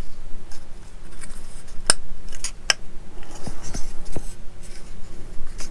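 Small plastic model-kit parts being handled and pushed together, with a few sharp clicks, the clearest about two seconds in and again shortly after.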